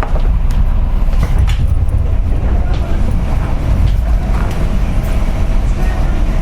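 Inside a JR West 201 series electric train car at a station stop: a steady low rumble from the car, with scattered light clicks and a faint steady tone joining about four seconds in.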